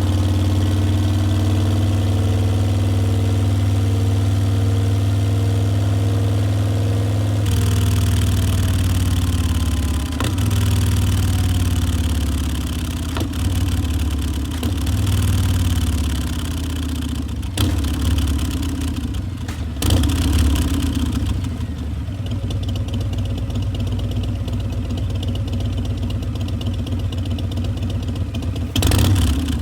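Harley-Davidson Milwaukee-Eight V-twin of a 2018 Softail Breakout running through Vance & Hines Twin Slash mufflers. It idles steadily, the note changes about seven seconds in, and then it is given several short throttle blips before settling back to idle, with one more rev near the end.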